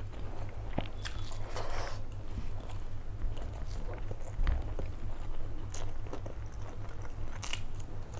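Close-miked chewing of a mouthful of rice and curry eaten by hand, with scattered short clicks and smacks, over a steady low hum.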